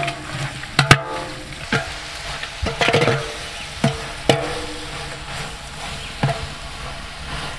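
Sliced onions, shallots, ginger, garlic and green chillies frying in coconut oil in a large metal pot, stirred with a long spatula: a steady sizzle broken by irregular scrapes and knocks of the spatula against the pot, some of which leave the pot ringing briefly.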